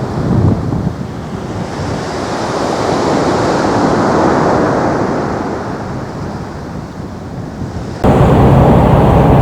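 Boeing 737-800 jet engine noise, a rushing sound with wind on the microphone that swells and then fades. About eight seconds in it cuts abruptly to a louder, steadier jet engine sound with a low hum.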